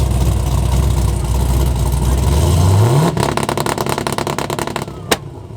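Car engine running with a loud low rumble. About two and a half seconds in it revs up into a rapid, even pulsing, and there is a single sharp crack near the end.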